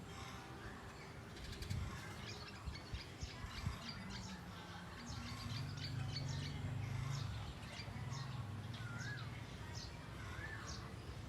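Birds chirping: many quick high chirps throughout, and near the end three short wavering whistled notes. A low drone underneath through the middle is the loudest part.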